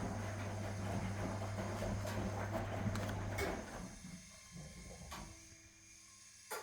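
1961 AEG Lavamat Noris washing machine running with a steady electrical hum and a rushing, sloshing noise, which stops abruptly about three and a half seconds in; a few faint clicks follow.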